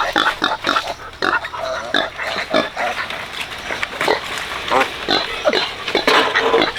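Newborn piglets squealing and grunting, many short high calls overlapping, with a few longer squeals near the end.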